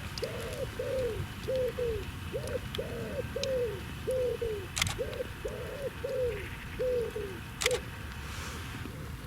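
A bird giving a long run of short, arched cooing notes, about two a second and often paired, that stops shortly before the end. Two sharp clicks come about five and eight seconds in.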